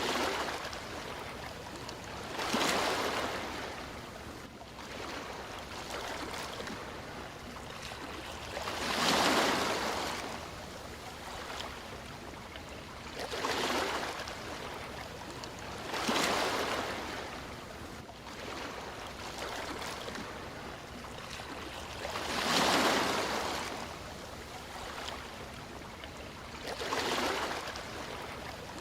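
Sea waves breaking and washing ashore: about seven separate rushes of surf, each swelling and fading, a few seconds apart over a steady bed of low surf noise.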